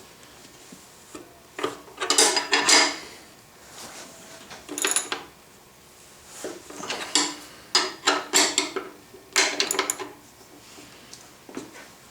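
Painted steel workbench bracket parts clinking and scraping against each other as they are handled and fitted, in about half a dozen short spells.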